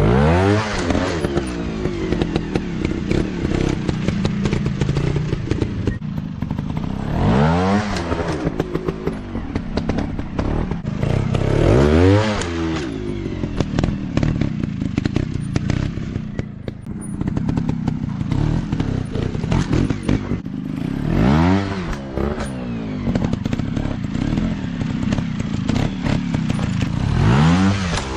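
Dirt bike engine running and revving up and back down about five times, with clattering and knocking throughout.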